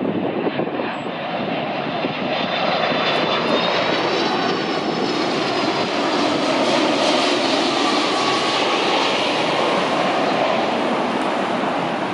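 Heavy jet airliner on landing approach: a loud, steady engine roar with a high turbofan whine that rises and falls slightly in pitch partway through.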